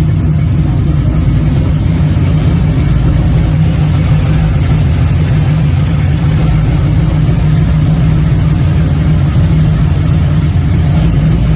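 LS-swapped Chevrolet Camaro SS's V8 engine running at a steady idle, loud and low-pitched with no revving.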